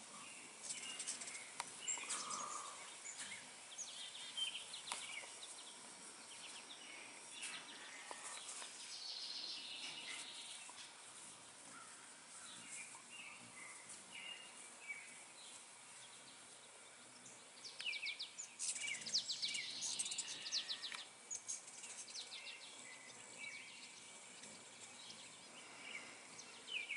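Faint garden ambience with birds chirping and singing, including a quick run of chirps about two-thirds of the way through.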